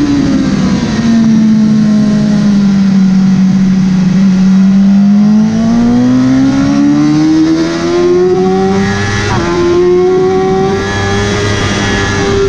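Motorcycle engine at track speed: revs drop and hold low for a few seconds, then climb steadily, with a short break about nine seconds in where it shifts up a gear and keeps pulling.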